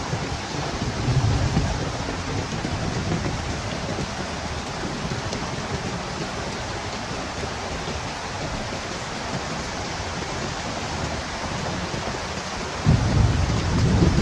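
Heavy rain falling steadily with wind. Near the end a deep rumble of thunder starts suddenly and grows louder.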